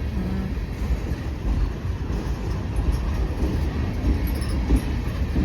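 Two EMD GP-series diesel locomotives, a GP38-2 among them, passing with a steady low rumble.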